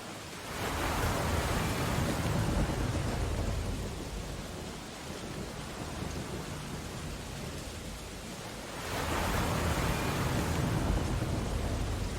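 Storm ambience: steady rain on window glass, with two heavy swells of crashing ocean surf, one about half a second in and one about nine seconds in, each rising and fading over a few seconds with a deep rumble.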